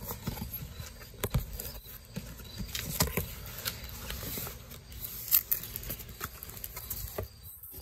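Paper leaflets and cardboard packaging being handled and rustled, with scattered light clicks and taps.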